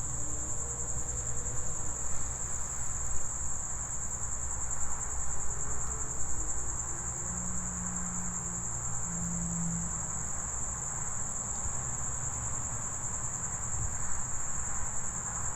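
Crickets trilling in a steady, unbroken high chorus over a low rumble.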